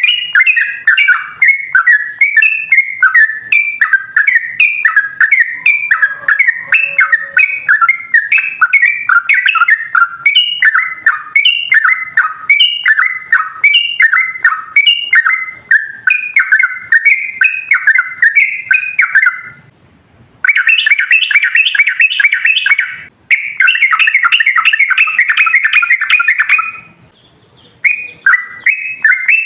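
Yellow-vented bulbul singing a long, rapid run of bubbling, chattering notes. The song breaks off briefly three times and resumes in denser bursts in the second half.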